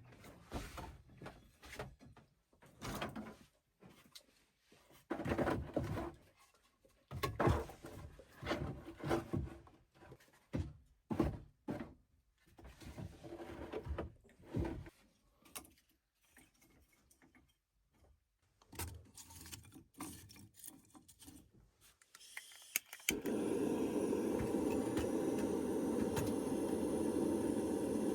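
Irregular knocks, scrapes and rustles of things being handled, then about 23 seconds in a steady rushing noise starts abruptly and holds.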